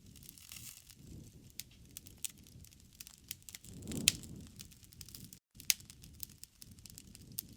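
Wood fire in a fireplace crackling and popping irregularly over a soft low rumble of flames, with a swell and a sharp pop about halfway through. The sound cuts out for a split second just after that.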